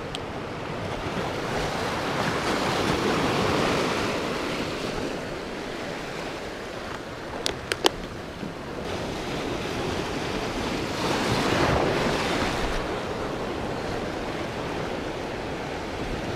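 Sea waves washing and wind blowing across the microphone, swelling twice. About halfway through come two brief sharp clicks.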